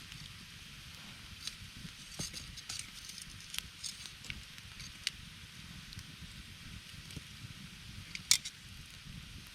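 Wood campfire crackling, with scattered sharp pops and one louder pop near the end over a low steady rumble.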